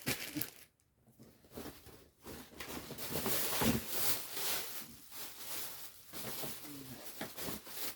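Faint rustling and light handling knocks, like packaging or a bag being rummaged through, starting about two seconds in after a brief near-silent pause.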